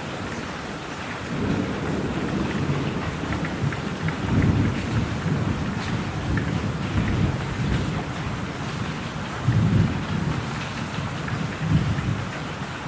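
Steady rain with rolling thunder. Low rumbles build about a second in and swell several times, with the loudest peaks midway and near the end.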